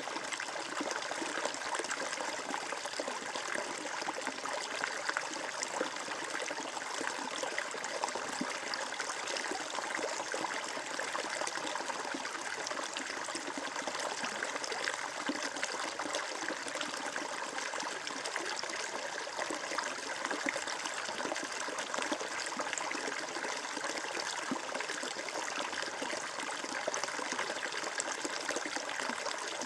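Water flowing and trickling steadily over rocks in a stream, an even splashing rush with no pauses.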